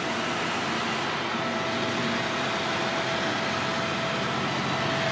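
A steady machinery drone with a faint constant whine, like an idling engine or a running plant unit.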